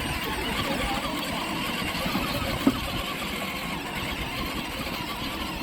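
Battery-powered ride-on toy truck's electric motor and gears running as it drives, with a single knock about two and a half seconds in.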